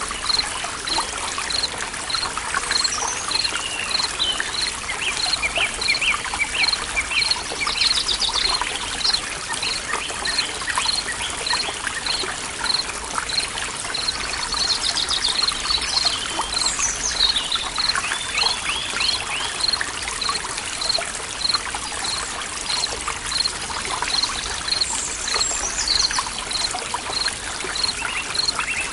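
Forest stream trickling and flowing steadily, with birds chirping now and then over it and a high pip repeating about twice a second throughout.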